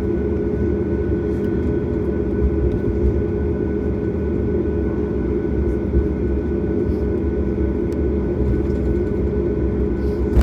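Steady engine and airflow noise inside the cabin of a Boeing 737 MAX, a deep even rumble with a few faint steady tones above it and occasional light clicks.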